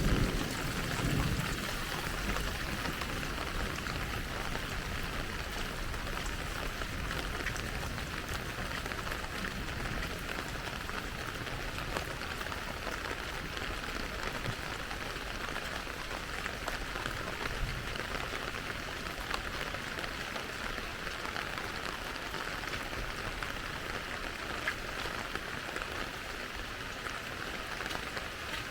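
Steady rain falling, an even continuous hiss, with a low rumble that fades away in the first second or two.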